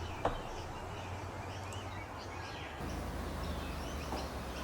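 Faint, short bird chirps scattered over a steady low background hum.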